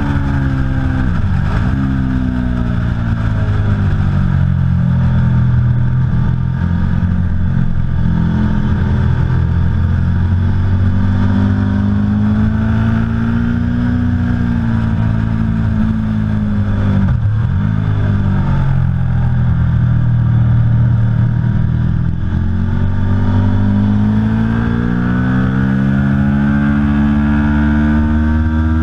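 Aprilia Tuono V4 Factory's V4 engine running hard on a race track, its pitch climbing and falling slowly as the bike speeds up and slows, with a sharp brief drop in pitch about a second in and again near the middle.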